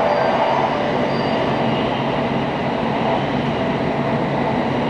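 Steady running noise of an N700 series 8000 Shinkansen heard from inside the passenger cabin: a continuous rumble of the wheels on the rails and the car body on the move.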